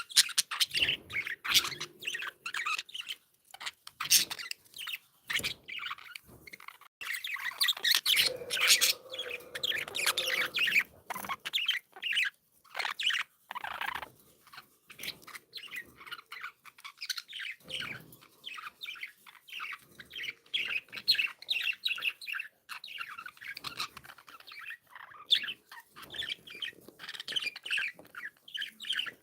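Budgerigars chirping and chattering in quick, short, overlapping calls, with a busier, louder flurry about a third of the way through.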